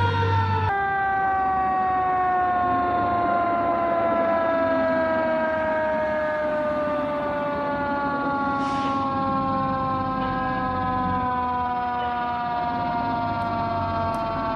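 Fire truck siren sounding, its pitch falling slowly and steadily as it winds down. A low drone underneath cuts off abruptly about a second in.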